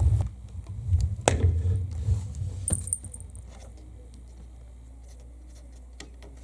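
Electric guitar played through a car amplifier and subwoofer: low bass notes die away with a few sharp clicks of string and handling noise, and after about three and a half seconds only a steady low hum from the rig is left.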